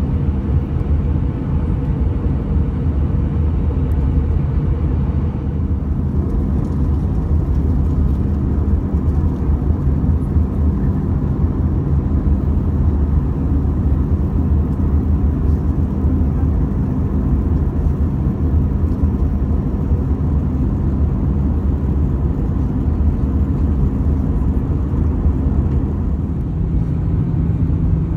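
Cabin noise of an Airbus A320-214 in flight: the steady drone of its CFM56 turbofan engines and airflow, heard from inside the cabin. There is a low hum, and its tone shifts slightly about six seconds in and again near the end.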